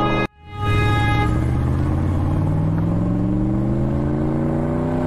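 Car engine sound effect accelerating, its pitch climbing slowly and steadily after a brief cut-out just after the start. A steady high tone sounds over it for about the first second.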